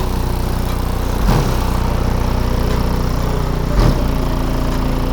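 Rap track played at high volume through an aftermarket car audio system, a heavy sustained bass line dominating, with a couple of drum hits.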